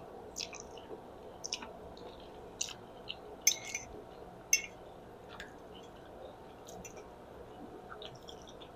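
Close-miked wet chewing and mouth smacks of a person eating spaghetti: a scattered series of short, moist clicks, the loudest two about halfway through.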